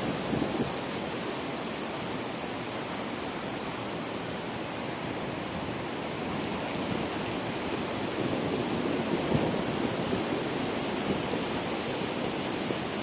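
Wind blowing steadily across the microphone, with a steady high-pitched whine throughout.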